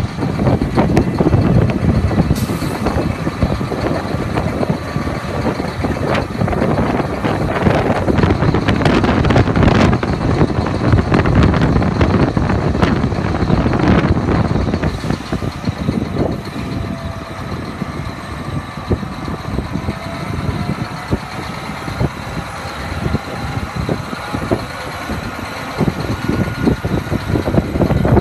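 John Deere 8360R tractor's diesel engine running, a steady heavy rumble with a faint whine that slowly shifts in pitch past the middle.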